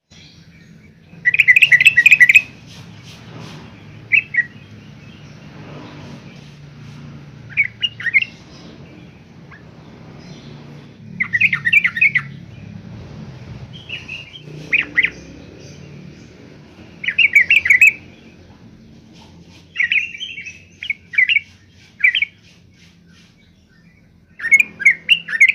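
Yellow-vented bulbul singing short bursts of quick, bubbly chattering notes, repeated every few seconds, over a faint low hum.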